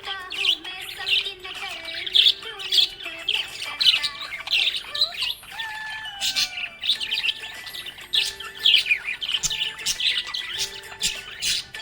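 Budgerigar chirping and warbling: a busy, continuous stream of short, quick chirps and squawks.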